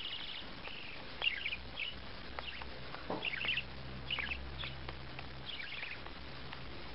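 Small bird chirping in short, repeated bursts of high chirps, about one burst every second.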